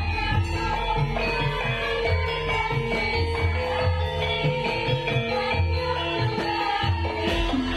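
Javanese gamelan playing an instrumental passage: ringing metallophone notes over steady hand-drum strokes.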